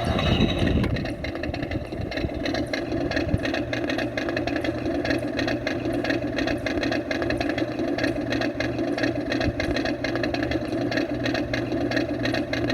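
New Bright RC monster truck's built-in sound effect: a simulated engine idle played through the toy's small speaker, a steady, fast, even pulsing that starts suddenly.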